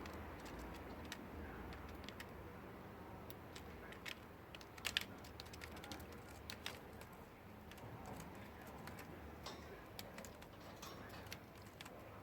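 A budgerigar preening: soft, scattered clicks and ticks from her beak working through her feathers, with a short cluster of louder clicks about five seconds in.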